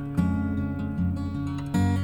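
Background music of strummed acoustic guitar chords, with a new chord struck shortly after the start and another near the end.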